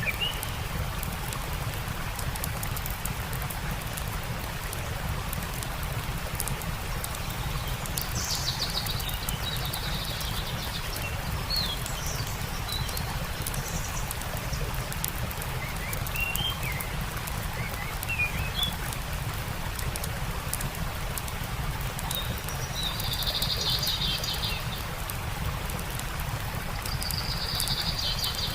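Steady rush of running water, with small birds chirping on and off and giving short buzzy trills about two-thirds of the way through and again near the end.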